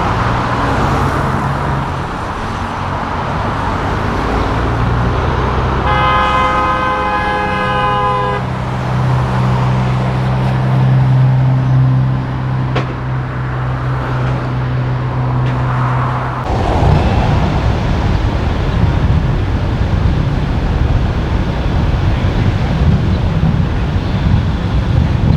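Big-rig diesel engines running as show trucks pull out, with one truck horn blast of about two and a half seconds around six seconds in. About sixteen seconds in, the engine sound changes to a louder, rougher rumble.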